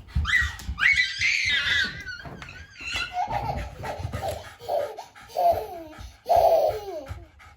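A toddler shrieking and laughing excitedly: high rising squeals in the first two seconds, then a string of short laughs, with low thumps underneath.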